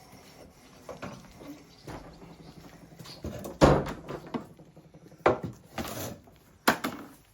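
A few irregular heavy knocks and thuds, the loudest about halfway through, with lighter knocks between them.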